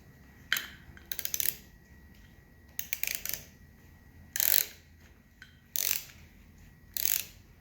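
Wrench tightening a headlight-bracket fastener on a BMW R69S: about six short bursts of rapid clicking, spaced a second or more apart.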